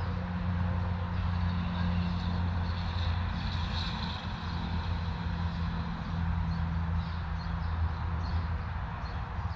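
Steady low hum of an idling vehicle engine, with faint high chirps above it.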